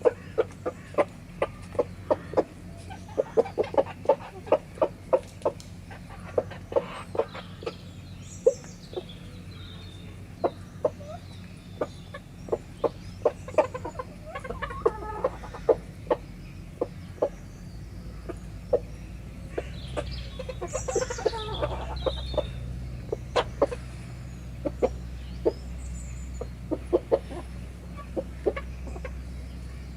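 Chickens feeding, with frequent sharp pecking clicks throughout and soft clucking. A louder call comes about eight seconds in and another about twenty-one seconds in.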